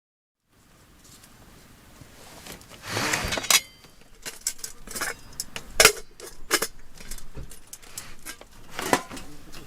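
Irregular clinks and knocks of gear being handled: a longer clatter about three seconds in, then single sharp strikes, the sharpest near six seconds and again near nine.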